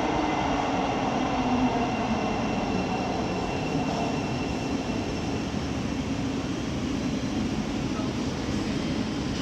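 Thameslink Class 700 electric multiple unit arriving and slowing at the platform: its motor whine falls in pitch over the first couple of seconds, then gives way to a steady rolling rumble.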